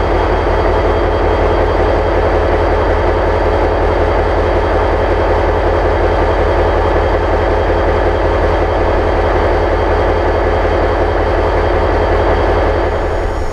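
EMD diesel locomotive engine running steadily at low throttle, a constant heavy rumble with no change in pitch.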